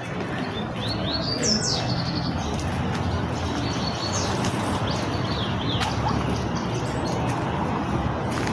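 A small bird chirping: two short runs of quick, sweeping high notes, about a second in and again about four seconds in, over a steady outdoor rush of background noise.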